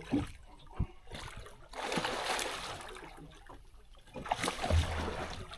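Water splashing in two bursts, with a few sharp knocks, from a freshly caught tope thrashing at a small boat.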